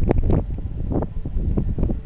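Strong wind buffeting the microphone, a low rumble with uneven surges.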